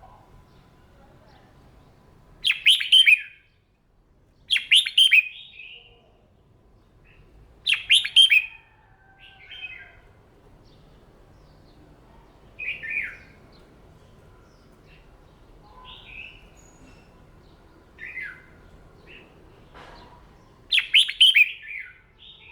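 Red-whiskered bulbul singing: short, loud, warbling song phrases about a second long, repeated with gaps of a few seconds, with softer single phrases in between.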